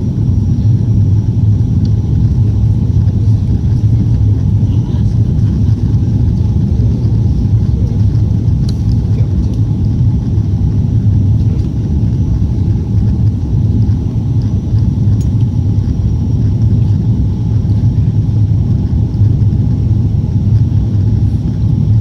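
Jet engines of an Airbus A340-300 running with a steady loud low rumble, a faint high whine held over it.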